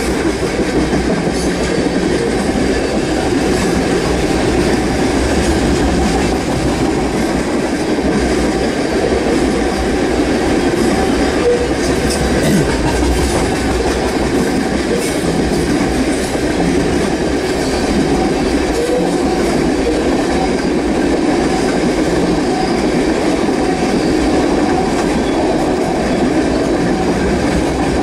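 Norfolk Southern freight train's cars rolling past at close range: a steady, loud noise of steel wheels running on the rails.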